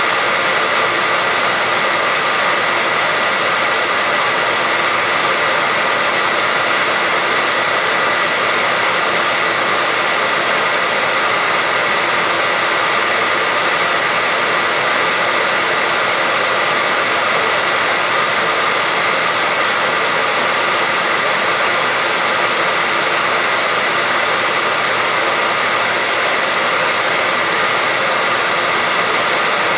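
Hair dryer blowing continuously at a steady speed, an even rush of air with a constant motor whine, unchanging throughout.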